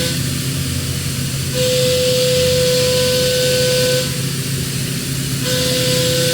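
CNC machine milling metal in repeated passes. Each pass brings a steady high whine with hiss for about two and a half seconds, over a constant low machine hum. One pass starts about a second and a half in and stops about four seconds in; the next starts near the end.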